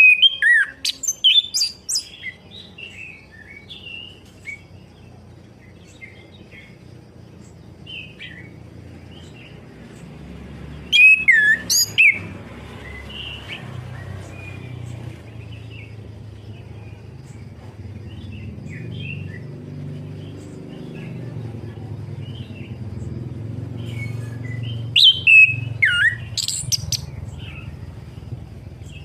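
Orange-headed thrush singing: loud bursts of quick, varied whistled phrases at the start, about eleven seconds in and around twenty-five seconds, with softer scattered notes between. A steady low hum runs underneath.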